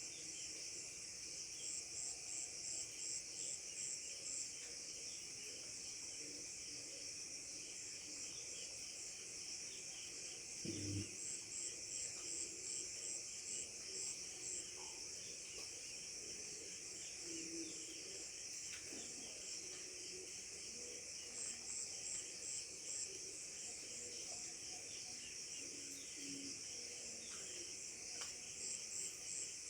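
Steady, high-pitched insect chorus. Four times, a spell of evenly spaced chirps, about three a second, rises out of it. There is a brief low thump about eleven seconds in.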